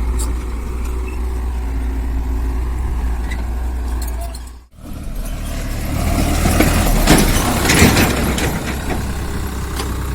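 Diesel engine of heavy machinery running with a steady low rumble. It cuts out for a moment near the middle, then comes back louder with knocks and rattles about two-thirds of the way through.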